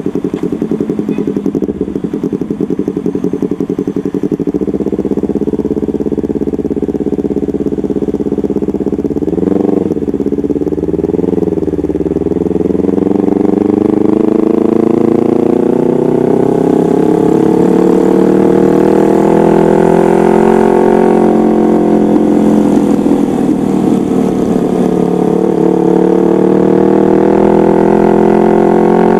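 Yamaha MT-25's parallel-twin engine through a custom exhaust: running steadily at first, two quick throttle blips about ten seconds in, then the revs climb slowly and get louder, ease off, and climb again near the end.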